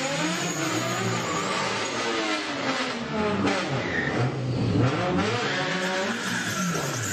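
Car engines revving hard, their pitch sweeping up and down again and again, over the hiss of tyres spinning in burnouts.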